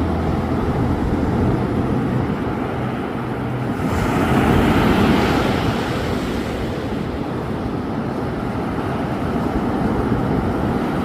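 Ocean surf washing steadily, with one wave breaking and surging louder about four seconds in.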